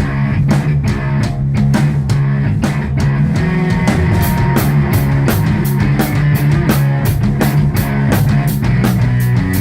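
Live rock band playing loud, heavy music: a sustained, distorted guitar and bass riff over a steady drum beat with frequent cymbal hits.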